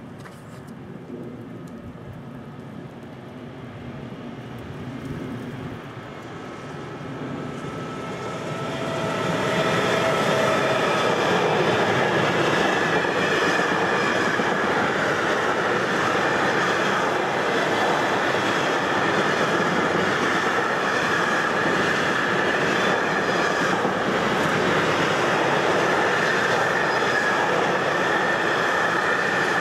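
Long intermodal freight train approaching and passing close by: its rumble grows over the first ten seconds, then the wagons roll past in a loud, steady clatter with a faint high ringing over it.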